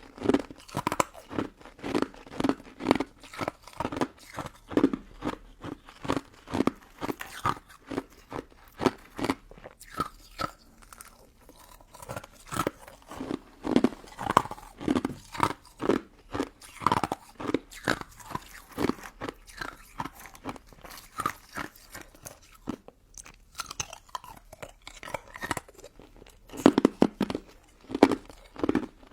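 Close-miked crunching and chewing of a crisp, icy crystal dessert: a steady run of bites and chews about two to three a second, with a couple of brief lulls.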